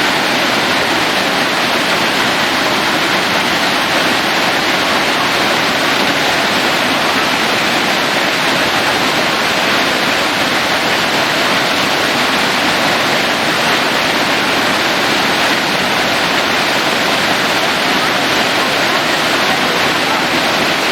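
Waterfall: falling water making a steady, even rush that stays unchanged throughout.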